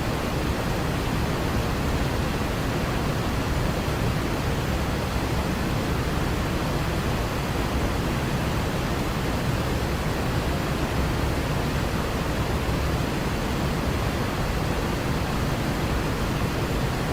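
Waterfall rushing as a steady, unbroken wash of noise, deepest in the low end.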